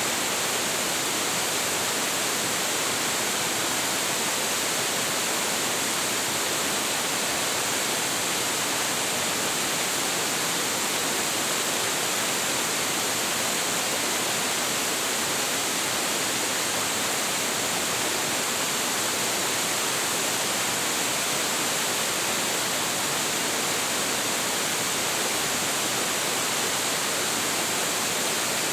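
Large waterfall crashing steadily into its plunge pool: a constant, even rush of falling water with no change.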